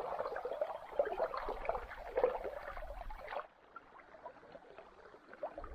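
Water splashing and gurgling, full of small irregular crackles, cutting off abruptly about three and a half seconds in.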